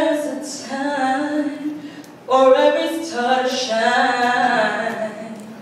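A woman singing unaccompanied in long, held phrases. A new phrase begins a little over two seconds in.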